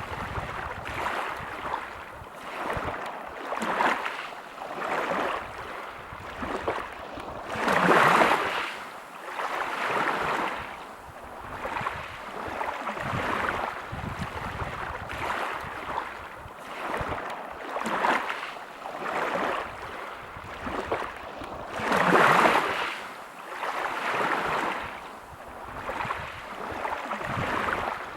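Sea waves breaking over a pebble beach. The surf swells and falls back every couple of seconds, with two bigger breakers: one about eight seconds in and another about fourteen seconds later.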